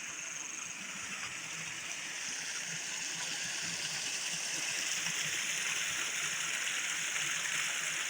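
River water flowing: a steady rushing that grows slowly louder.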